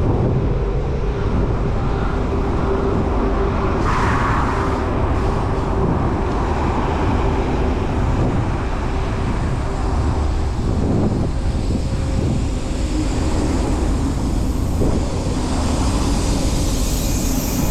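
City street traffic heard while riding a bicycle, over a steady low rumble, with a vehicle's engine hum growing near the end.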